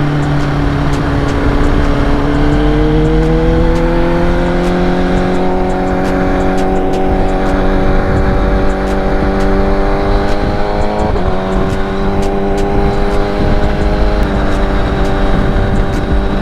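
Kawasaki Ninja ZX-6R inline-four engine under way, its pitch climbing slowly as the bike gathers speed. It dips briefly about two-thirds of the way through, then runs steady. A low wind rush sits underneath.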